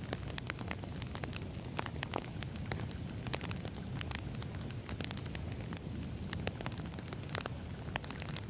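Wood fire burning: a steady low rumble with frequent sharp, irregular crackles and pops of burning logs.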